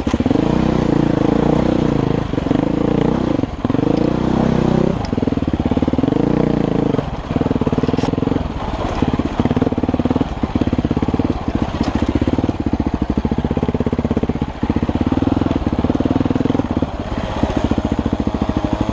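Off-road vehicle engine running on a rough trail under changing throttle. Its pitch wavers up and down, and it drops off briefly every second or two.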